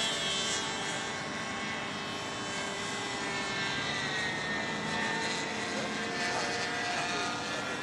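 Radio-controlled model airplane's motor droning steadily in flight, its pitch drifting slightly up and down.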